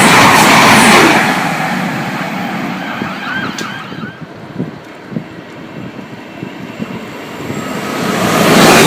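Passing train's loud rushing noise, fading away over the first few seconds, then building again near the end as a train approaches. A brief warbling tone sounds in the quiet stretch.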